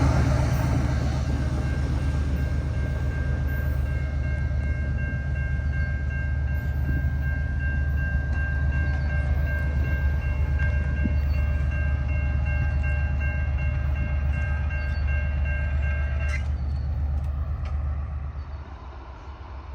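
Freight train rolling past with a steady heavy low rumble. A faint steady high tone of several notes sounds from about four seconds in and cuts off suddenly after about sixteen seconds. The rumble fades away near the end.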